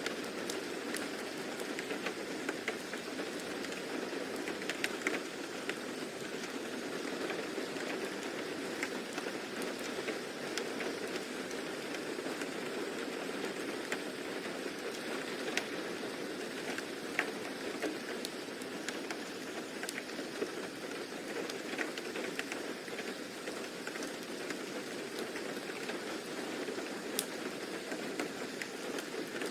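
Steady rain falling, a continuous hiss with scattered sharper drops ticking.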